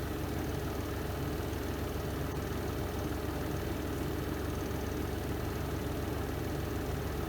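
Spin drum of a Renova semi-automatic twin-tub washing machine running steadily during the spin cycle: an even motor hum and whir with no change in speed.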